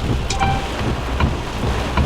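Heavy rain beating on a car, over a low steady rumble, with a sharp knock repeating a little faster than once a second. A brief high tone sounds about half a second in.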